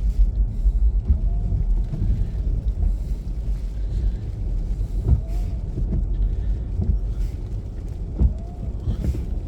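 Car cabin noise while driving slowly on a snow-covered road: a steady low rumble of the car and its tyres on snow, with a couple of short knocks, about five and eight seconds in.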